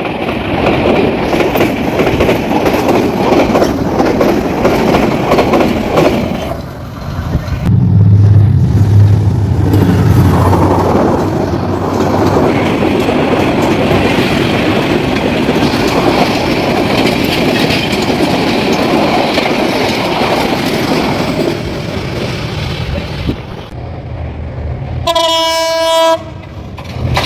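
Passenger train coaches rushing past close by, with the wheels clattering over the rail joints. About seven seconds in, it switches to a second train passing in the same way. Near the end a train horn sounds once for about a second.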